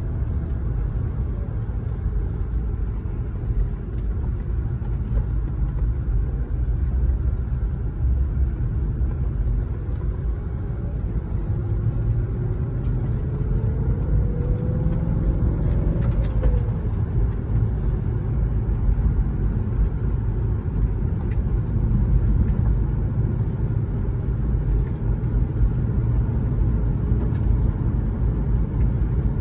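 2004 Audi S4's 4.2-litre V8 running while the car is driven, the engine still not up to full operating temperature. A steady low rumble of engine and road, with a pitched tone that rises and then drops away about halfway through.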